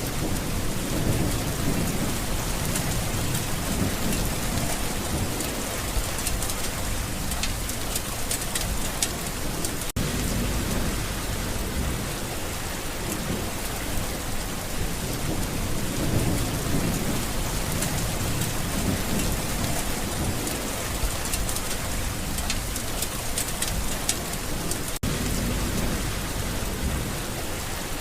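Steady rain with low rolling thunder that swells and fades every few seconds.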